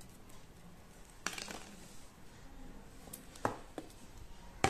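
Hands handling a coiled camera-charger power cable: a brief rustle, then a few sharp clicks near the end.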